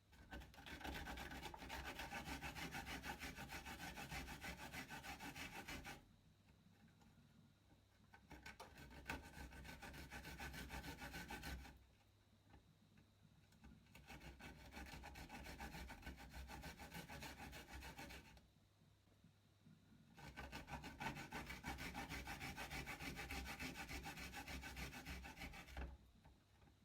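A garlic clove rubbed quickly back and forth on a grater, a fast rasping scrape in four bouts of about four to six seconds each with short pauses between.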